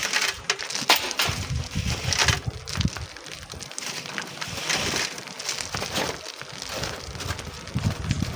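Wind buffeting the microphone in uneven gusts, with irregular crunching and scraping strokes over it.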